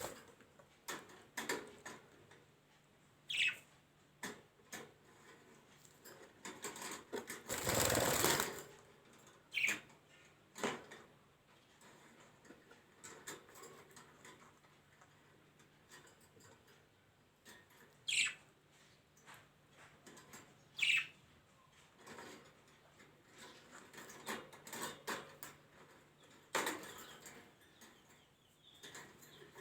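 Small birds giving short, scattered chirps and clicks, with a brief loud rustling burst about eight seconds in.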